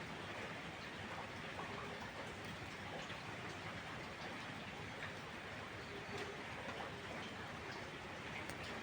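Steady rain falling, with scattered small clicks and pops.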